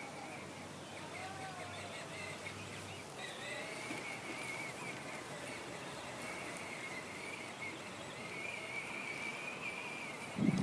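Birds chirping over a steady outdoor background hiss.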